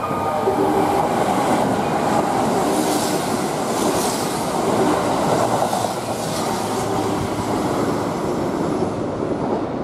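Kintetsu 22000-series ACE limited express, coupled with a 22600-series Ace, passing through the station at high speed without stopping: a loud rush of wheels on rail with rail-joint clatter, strongest as the cars sweep past in the middle.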